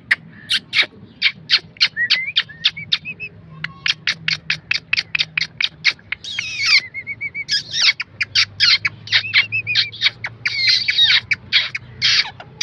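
Ringneck parrot (rose-ringed parakeet) giving rapid, sharp chirping calls, several a second, broken by a few longer harsh screeches in the second half.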